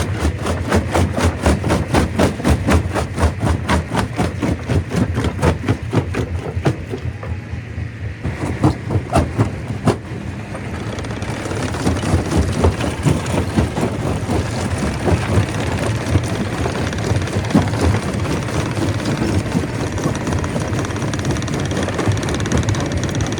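Stone crusher working rock: a rapid, even knocking of about three to four beats a second, a few separate sharp impacts about eight to ten seconds in, then a denser, steadier crushing noise for the rest.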